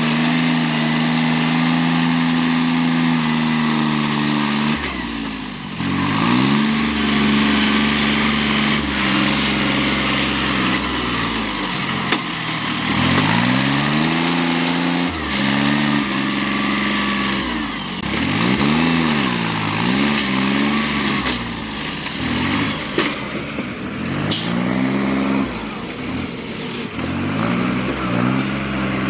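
A vehicle engine running and being revved up and down over and over: its pitch drops and climbs again every couple of seconds, with short steady stretches in between, as under changing throttle and load.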